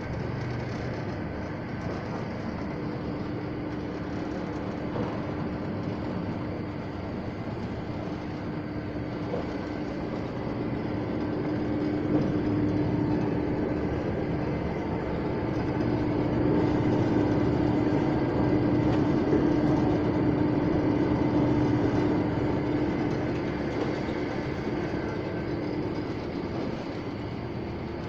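Stainless-steel vial and ampoule washing machine (CMP di Pilastro Mod. A-4) running: a steady mechanical hum with a constant tone, growing louder for several seconds in the middle before easing back.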